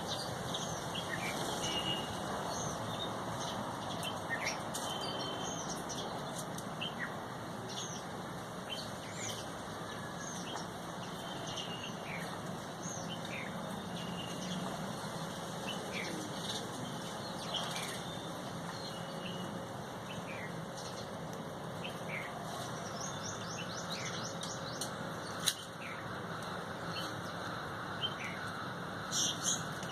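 Several small birds chirping and calling: many short high chirps and a sharp downward-sliding note repeated every couple of seconds, over a steady background hiss. A single sharp click late on.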